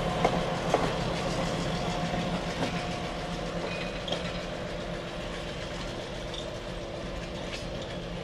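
Train of cabooses rolling slowly past behind an EMD SW7 diesel switcher, wheels clicking over rail joints a few times in the first second, over the locomotive's steady low engine hum. The sound fades gradually as the train moves away.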